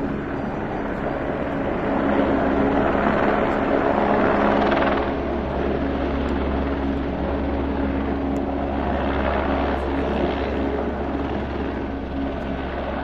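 Helicopter coming in to land, its rotor and turbine running steadily with a low hum, and a rushing swell of rotor noise about two to five seconds in.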